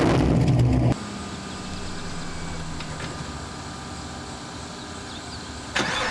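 Straight-piped Camaro ZL1's supercharged V8, with long-tube headers, idling loudly. About a second in, the sound drops abruptly to a much quieter, steady engine hum for about five seconds, then the loud idle comes back near the end.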